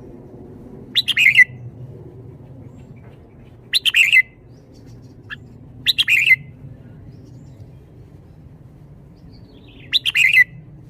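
Red-whiskered bulbul singing four short, loud, chirping phrases, spaced a few seconds apart, over a faint steady low background hum.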